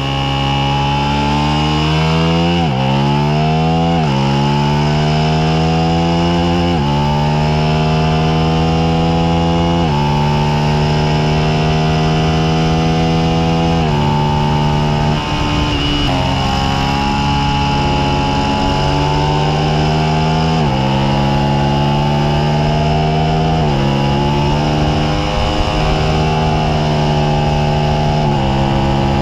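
Suzuki SV650's 645 cc V-twin engine pulling hard on track. Its pitch climbs and drops sharply at each upshift, several times in the first ten seconds, then it stays at high revs with further gear changes.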